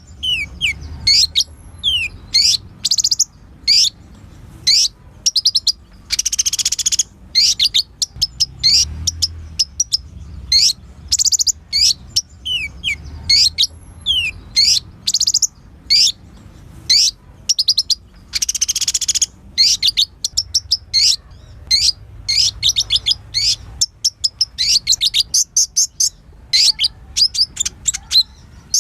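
Kolibri ninja sunbird singing energetically: a dense, continuous run of sharp high chirps, quick rising and falling whistled sweeps and rapid trills.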